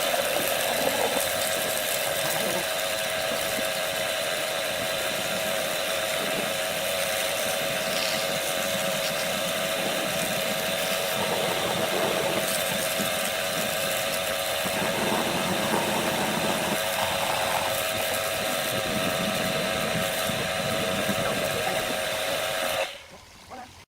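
A power tool or workshop machine running steadily with a constant whine, cutting off suddenly about a second before the end.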